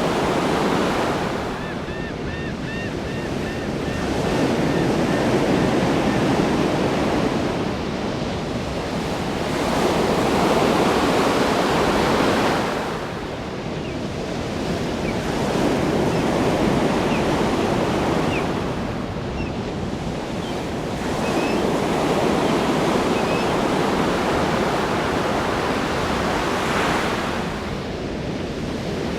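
Ocean waves breaking and washing on a shore, each surge swelling and falling away about every five or six seconds.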